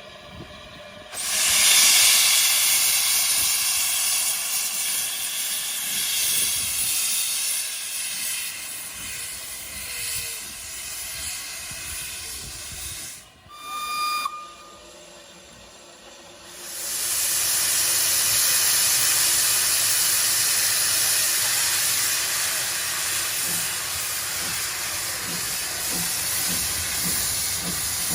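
Steam locomotive venting steam with a loud, steady hiss. The hiss breaks off about halfway, a short whistle toot sounds, then the hissing resumes.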